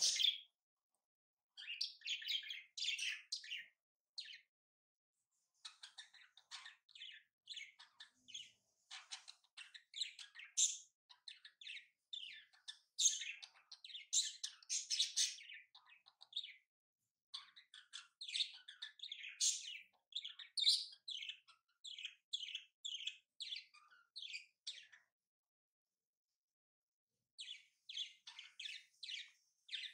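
Small birds chirping in quick runs of short, high notes, stopping twice for a couple of seconds.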